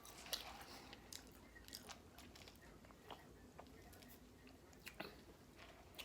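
A person chewing food quietly, with scattered faint wet mouth clicks.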